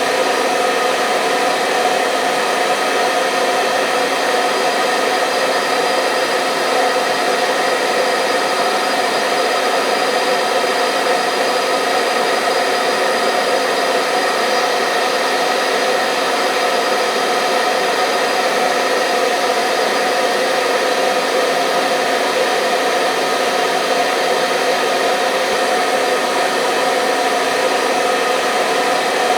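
Hair dryer running steadily: a constant rush of blown air with an even motor hum, unchanging throughout.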